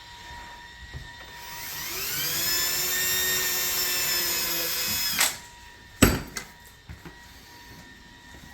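Power drill spinning up with a rising whine and running steadily for about three seconds while driving a screw into a cabinet door hinge, then stopping. A click and then a sharp knock follow.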